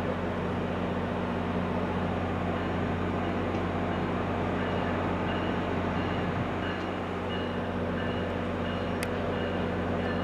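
A New Jersey Transit train approaching the station: a steady rumble with a low, even hum. A faint high tone repeats about twice a second from about three seconds in.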